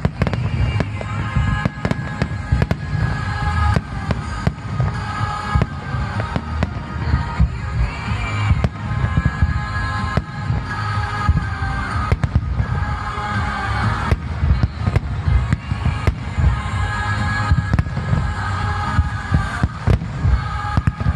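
Aerial fireworks barrage: many shell bursts in rapid succession, with sharp bangs over a continuous low rumble.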